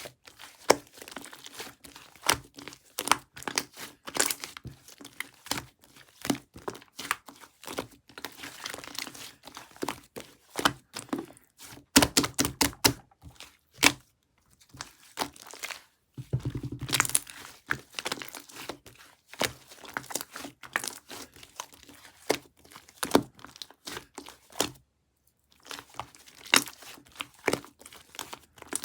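Hands squishing, stretching and pressing a thick opaque slime, giving irregular sticky pops, crackles and clicks, with a brief pause near the end.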